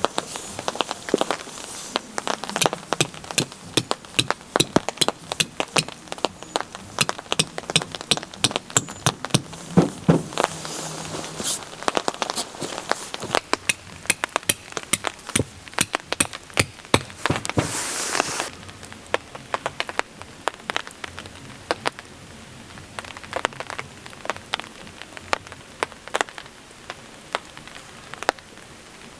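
Rain falling, with many sharp raindrop taps at an irregular pace over a steady hiss. A louder hiss rises about 17 seconds in and cuts off suddenly about a second later.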